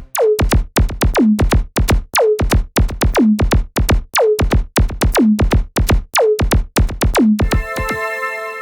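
Roland System 8 synthesizer playing a percussive preset: a fast drum-machine-like pattern of zapping hits, each sweeping sharply down in pitch and settling alternately on a higher and a lower note. Near the end it changes to a sustained keyboard-like chord.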